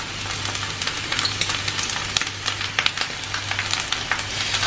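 Fried rice sizzling in a hot wok, with many sharp crackles over a steady hiss, as a wooden spatula stirs and tosses it.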